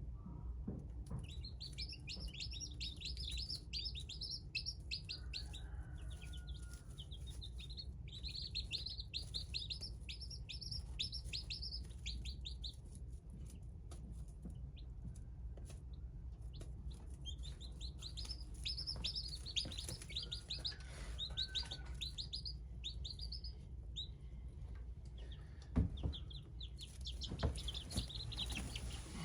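Small birds singing in repeated high phrases of quick chirps, each phrase a few seconds long with pauses between, over a steady low rumble.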